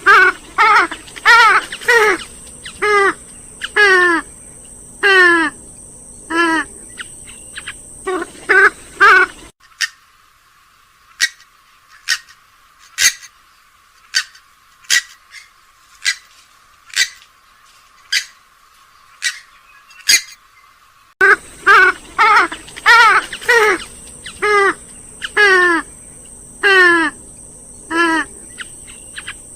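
Looped lure recording of swamphen and moorhen calls: a quick run of short, harsh calls, then a stretch of only brief sharp ticks, then the same run of calls again near the end.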